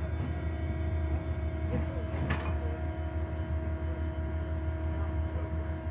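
Engine running steadily at idle: a low drone with a steady hum over it, and a brief faint clatter about two seconds in.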